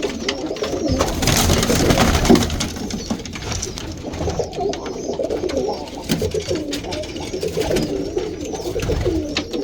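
Many domestic roller pigeons cooing in a loft, overlapping low coos one after another. A burst of rustling noise comes about a second in.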